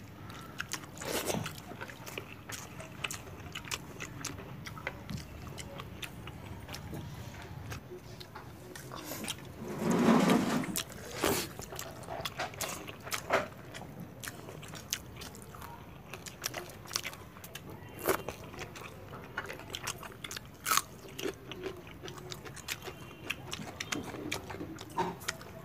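Close-up eating sounds: chewing and biting on fried pohala fish and pakhala (water-soaked rice), with many small clicks and the hand working the rice in its water. A longer, louder burst comes about ten seconds in.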